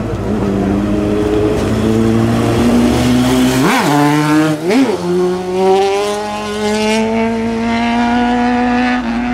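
Sport motorcycle engine running hard, blipped sharply up and back down twice about four and five seconds in, then climbing slowly in pitch as the bike pulls.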